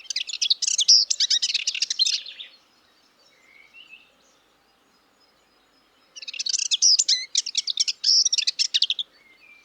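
A songbird singing two fast song phrases of rapid high notes, each two to three seconds long: one at the start and one about six seconds in, with a faint call between them.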